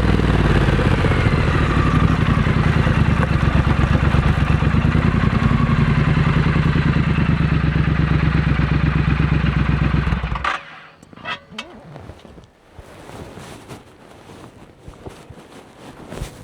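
A Triumph Scrambler 900's parallel-twin engine, breathing through a Vance & Hines aftermarket exhaust, settles from a blip down to a steady idle. It is switched off about ten seconds in and cuts out suddenly, leaving a few faint clicks.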